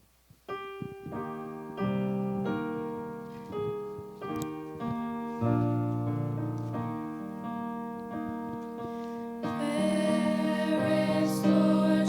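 Piano playing the introduction to a hymn, starting about half a second in with single notes and chords, growing louder and fuller near the end.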